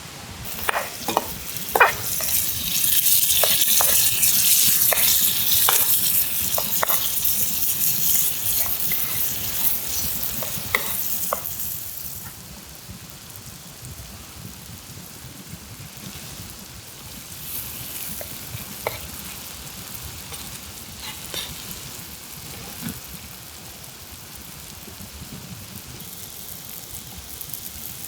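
Food sizzling in a hot pan while being stirred, with sharp clicks of a utensil against the metal. The sizzling is loud for the first dozen seconds or so, then drops to a softer sizzle with occasional clicks.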